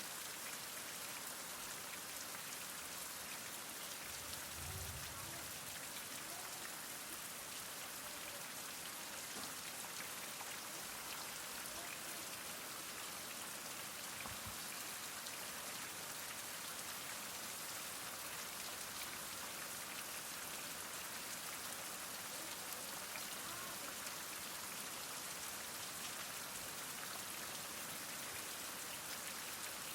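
Heavy rain falling steadily: an even, unbroken hiss of many drops striking surfaces.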